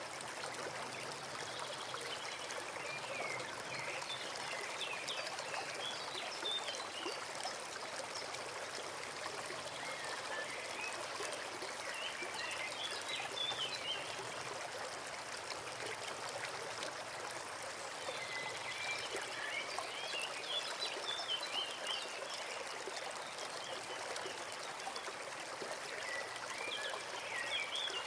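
Forest stream running steadily, with a small bird singing in four short bouts of quick chirping phrases spaced several seconds apart.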